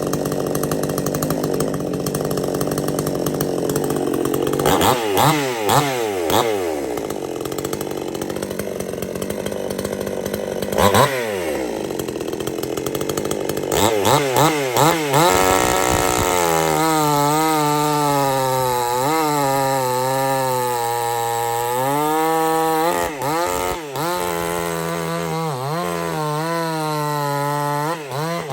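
Supmix 54cc two-stroke chainsaw idling, with several quick revs up and back down, then from about halfway through held at high revs, its pitch wavering and dipping briefly now and then.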